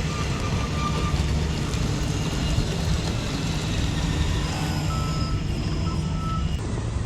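Radio-controlled construction models running steadily on their motors and gearboxes, with short high electronic beeps of a reversing alarm near the start and again about five seconds in.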